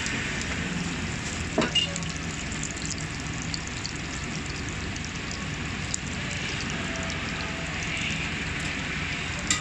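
Chive boxes (half-moon Chinese pan-fried pastries) frying in shallow oil in a wide black iron pan: a steady sizzle, with two short clicks about a second and a half in.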